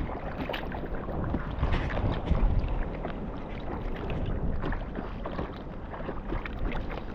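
Sea water splashing and sloshing close to the microphone as a person swims, with irregular splashes throughout.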